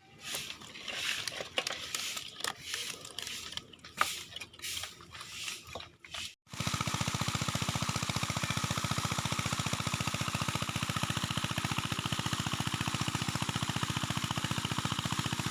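Irregular scraping and knocking handling noises for about six seconds, then an abrupt cut to a steady engine running with a fast, even pulse.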